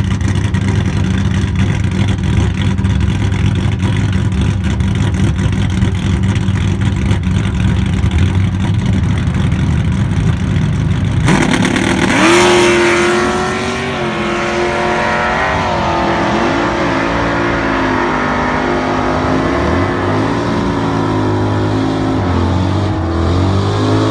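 Drag car engine running loud and steady while staged at the line, then about eleven seconds in it launches at full throttle: the engine note climbs, drops and climbs again through several gear changes as the car runs down the strip.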